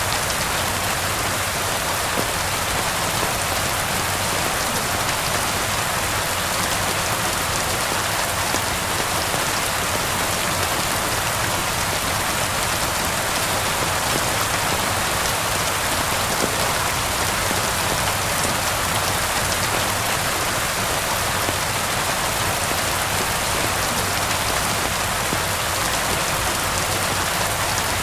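Steady rain falling and pattering on surfaces, an even hiss without letup.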